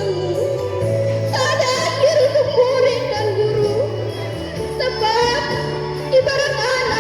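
Girls' choir singing a melody with vibrato over steady low accompanying notes that shift pitch every second or so.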